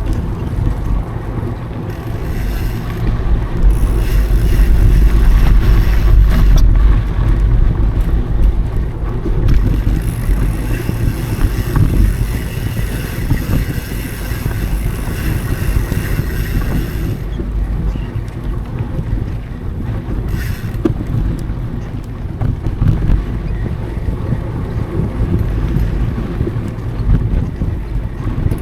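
Wind buffeting the action camera's microphone as a mountain bike rides a dry dirt trail, over a loud, uneven rumble of tyres and bike on the ground. The rumble is heaviest a few seconds in.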